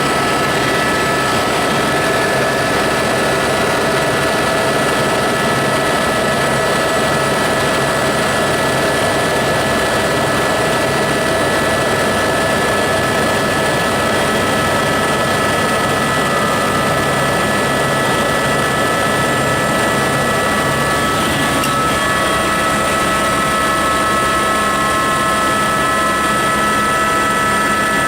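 Helicopter in flight heard from inside the cabin: a loud, steady drone with a constant high whine from the turbine and gearbox over the low beat of the rotor. A faint tone slides down in pitch about two-thirds of the way through.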